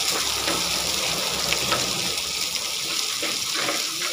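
Shallots and garlic sizzling steadily in hot sesame oil in a clay pot, with faint ticks from a wooden spatula stirring them.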